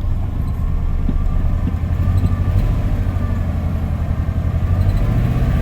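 Ford F-150 pickup engine idling, heard from inside the cab: a low, steady rumble with a slightly uneven beat. It is a shaky, rough idle, which the owner puts down to worn spark plugs or fuel injectors that need cleaning.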